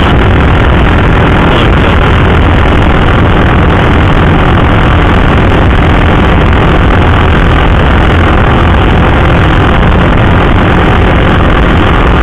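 KTM RC 390 single-cylinder motorcycle engine running steadily while riding, under a loud, even rush of noise.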